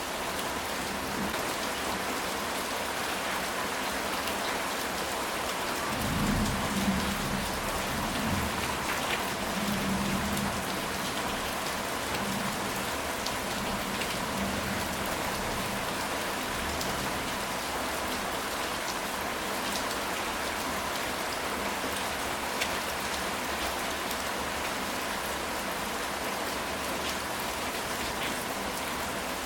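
Steady rain falling on a ceramic tile roof. A low rumble of thunder swells up about six seconds in and fades over a few seconds.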